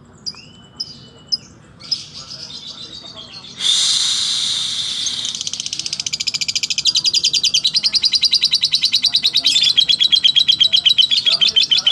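Lovebird singing a slow ngekek. A few short chirps are followed by a harsh burst about three and a half seconds in, which runs into a long, rapid chattering trill of repeated notes, about ten a second.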